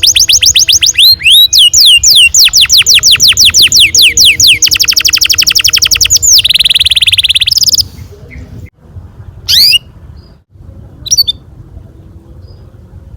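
Canary singing: a run of repeated falling notes that speeds into a faster trill, then a buzzing roll that stops about eight seconds in, followed by two single chirps.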